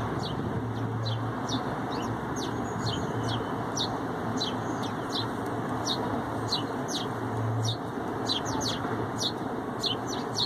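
Small birds chirping, many quick high chirps repeating throughout, over a steady background hiss and rumble.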